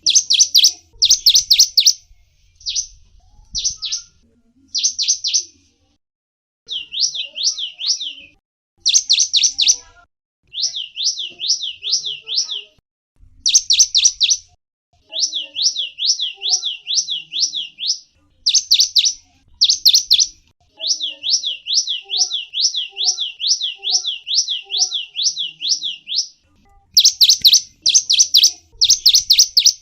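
A gelatik wingko, a small songbird, calling in quick runs of high chirps that slide down in pitch. The runs last a second or two each, with short pauses between them.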